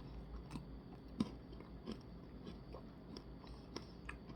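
Faint chewing of a soft-serve ice cream Blizzard with frosted animal cookie pieces: scattered soft mouth clicks and smacks, one a little louder about a second in.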